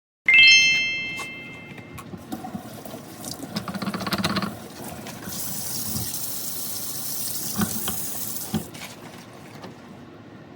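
A single bright chime rings out just after the start and fades over a second or so. A few seconds later comes a steady hiss of running water, like a tap, with a couple of knocks near the end.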